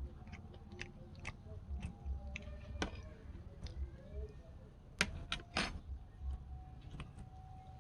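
A person eating, chewing with mouth sounds and short sharp clicks, two louder clicks about five seconds in.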